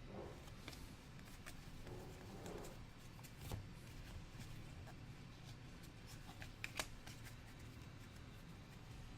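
Trading cards being handled and flipped through: soft rustling with scattered light clicks, and two sharper clicks about three and a half and seven seconds in.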